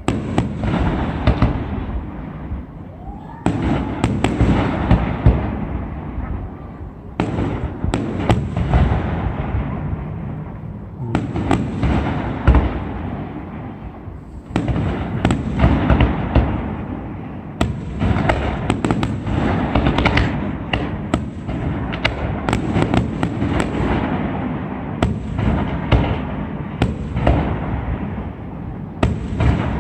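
Aerial fireworks display: barrage after barrage of shell bursts and rapid crackling bangs, each followed by a rumbling echo. A fresh salvo starts every three to four seconds.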